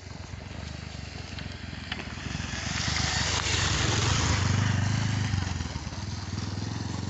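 Motor vehicle engine running with road and wind noise, growing louder to a peak midway and then easing off.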